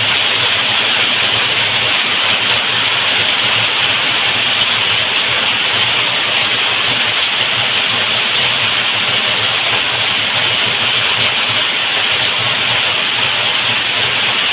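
Heavy rain falling steadily, an even hiss with no pauses.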